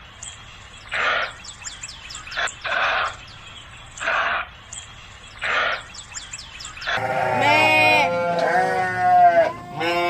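Sheep bleating loudly in long, wavering calls, starting about seven seconds in. Before that, a series of short rasping animal calls about every one and a half seconds, with small birds chirping.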